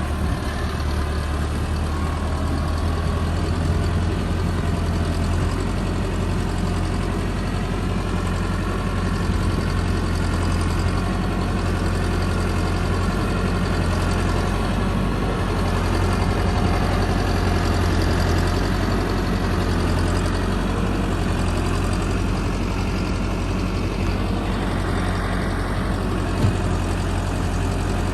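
Tractor diesel engine running steadily with a deep, even hum. There is one short sharp knock near the end.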